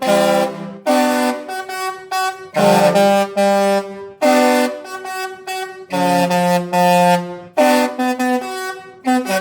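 Disney Destiny cruise ship's musical horn playing a tune: a string of held, chord-like notes, each a second or so long, changing pitch from note to note with short dips between them.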